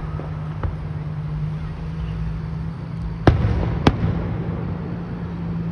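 Fireworks going off: two sharp, loud bangs about half a second apart a little past the middle, with fainter pops near the start and end, over a steady low hum.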